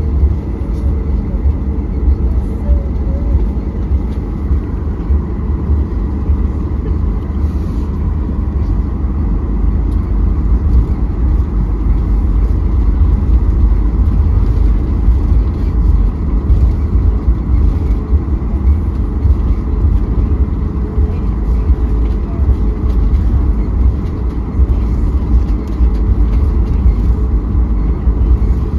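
Steady low rumble of a moving vehicle heard from inside the cabin, with faint steady hums over it.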